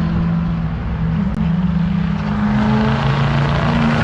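Duramax diesel pickup's engine running hard under throttle on a drag-strip pass, one steady loud note that creeps up in pitch.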